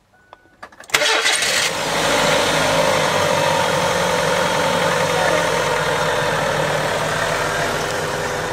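2005 Kia Rio's four-cylinder engine started about a second in, after a few faint clicks: a brief crank and catch, then idling steadily. It is running on freshly fitted spark plugs and wires, with no misfire.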